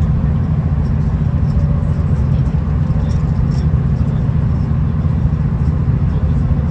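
V/Line VLocity diesel railcar travelling along the line, heard from on board: a steady low rumble of engine and running gear with even loudness.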